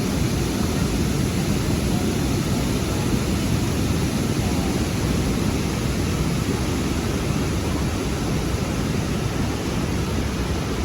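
Steady rushing noise of moving river water, heaviest in the low end.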